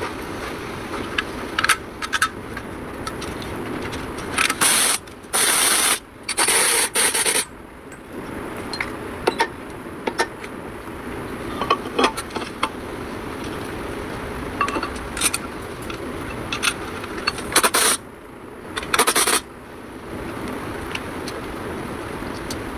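Metal work sounds: scattered sharp clicks and scraping, with several short hissing bursts, one group about five to seven seconds in and another near eighteen seconds.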